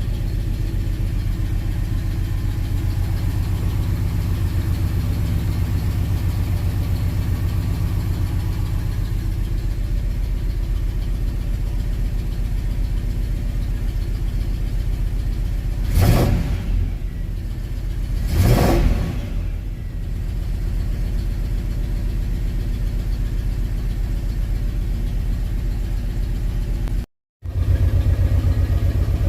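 1968 Oldsmobile 442's V8 idling steadily, blipped twice briefly about halfway through before settling back to idle. The sound cuts out for an instant near the end.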